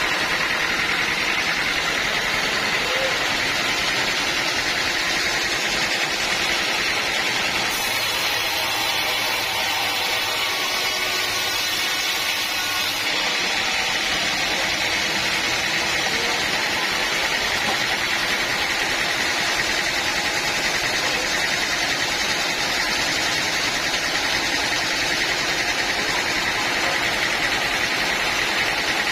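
Sawmill machinery running with a steady, unbroken drone and no breaks or impacts.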